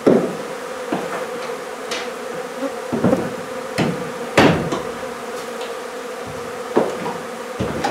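Honey bees from a hive in a wall, buzzing in a steady hum, with several sharp knocks scattered through it, the loudest right at the start and about four and a half seconds in.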